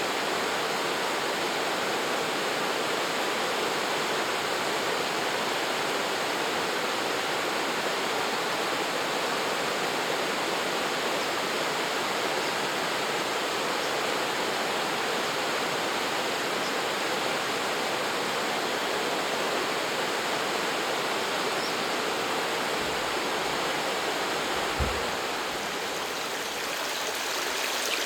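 Rushing water of a stream or waterfall, an even, unbroken noise, with one brief low thump near the end.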